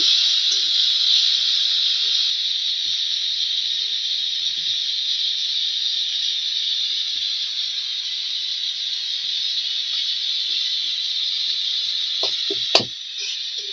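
Onions and tomatoes sizzling steadily in hot oil in an aluminium kadai, with a single sharp knock near the end.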